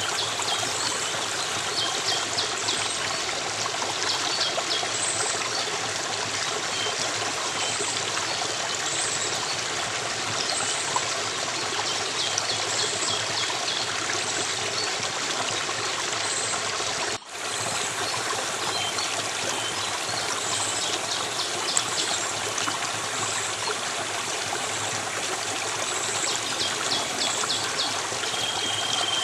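A stream of running water flowing and trickling steadily, with faint, short high chirps repeating every second or two over it. The sound drops out for an instant a little past halfway through.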